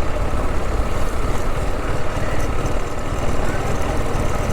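Single-cylinder engine of a TVS Apache RR 310 motorcycle running steadily at low revs.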